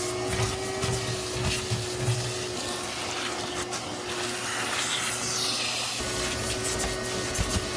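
Vacuum cleaner running steadily, its motor whine holding one pitch, with scattered knocks as it picks up debris.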